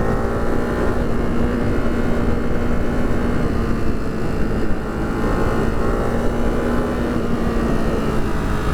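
Ducati Hypermotard 698 Mono's single-cylinder engine running at a steady cruising speed, with heavy wind rumble on the rider's microphone.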